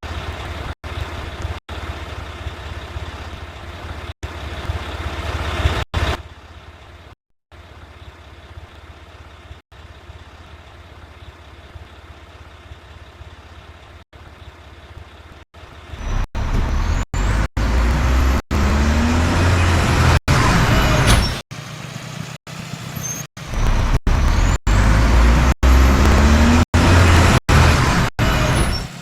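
Mack garbage truck's diesel engine running low for several seconds, then from about halfway through revving loudly in two long stretches with rising whines. The sound cuts out briefly many times.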